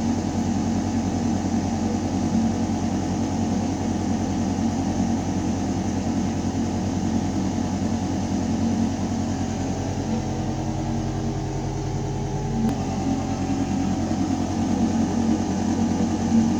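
Ventilation system running: a steady mechanical hum of air moving through metal ductwork, a low drone with several steady tones over an even rush of air. About ten seconds in the low hum shifts slightly, then settles back with a faint click a little before the end.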